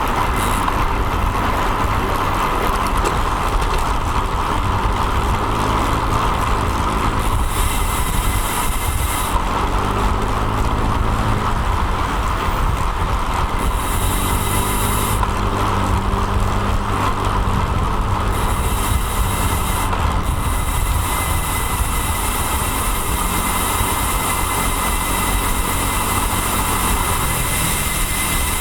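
Steady wind and road noise on a bicycle-mounted action camera's microphone while riding among traffic. From about a third of the way in to about two thirds, a motor vehicle's engine is heard alongside, its pitch rising and falling.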